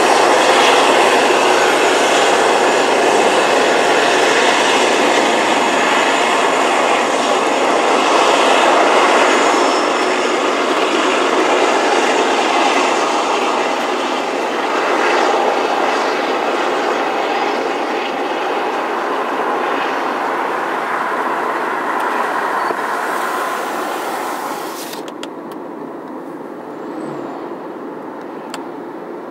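Freight train of covered grain hopper cars and tank cars rolling past: a steady rumble and rattle of steel wheels on the rails, easing off over the last few seconds as the hiss at the top drops away.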